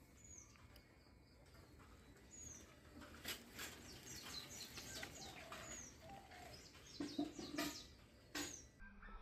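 Faint outdoor ambience with a small bird giving a short falling chirp every two or three seconds, and scattered clicks and scuffles, loudest about seven seconds in.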